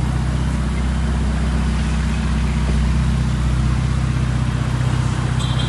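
Ferrari engine running steadily at low speed, an even low hum with no revving. A high electronic chime starts near the end.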